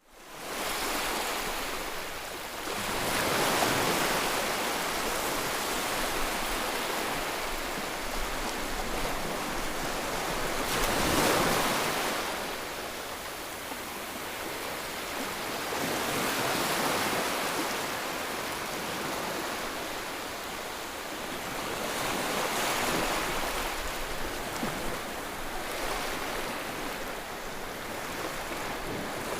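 White noise: a steady rushing hiss that swells and eases about every six seconds, like surf on a shore.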